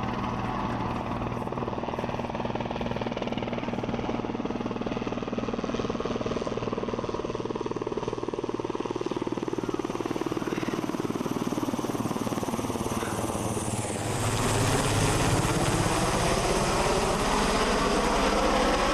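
Marine Corps helicopter rotors and turbines with a steady, fast rotor chop. It grows louder about three-quarters of the way through, with the pitch shifting as the helicopter comes nearer.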